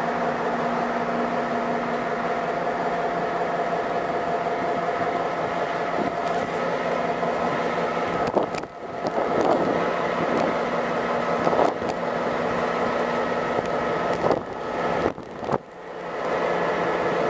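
Added sound effect of freight train cars rolling past: a steady rolling rumble with faint steady whining tones. It drops out briefly about halfway through and twice near the end.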